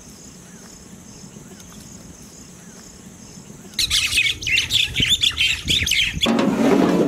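A flock of small birds chattering and squawking loudly, in many quick overlapping calls, starting about halfway in, after a few faint chirps. Music comes in near the end.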